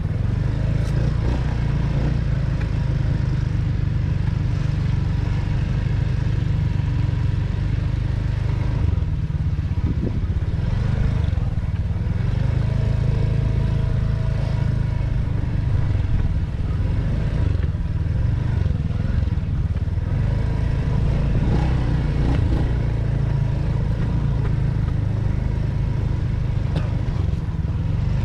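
Motorcycle riding at a steady speed, its engine and the ride making a continuous low rumble that holds level throughout.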